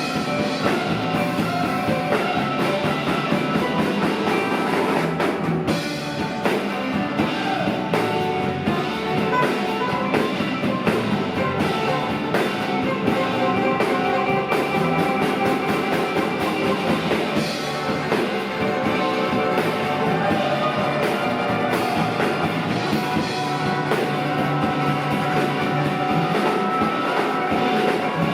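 Live rock band playing an instrumental passage: electric guitars over a drum kit, steady and continuous.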